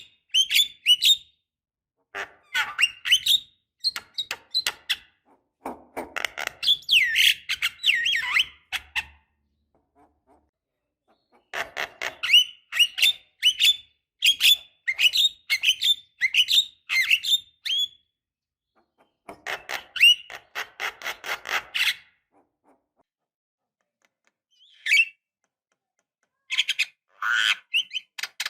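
Javan myna chattering in bouts of rapid, harsh, squeaky notes, each bout a few seconds long with short pauses between, and a longer pause near the end before a single call and a last bout.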